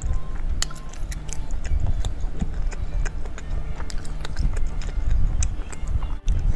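A person chewing food close to the microphone: irregular wet mouth clicks and smacks.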